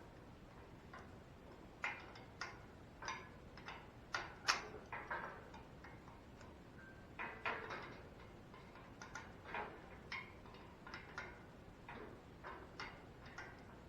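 A hand wrench working a rusted bolt out of a steel motorcycle swing arm: scattered light metallic clicks and clinks, a few at a time with short pauses. The bolt is turning but still snug with rust buildup.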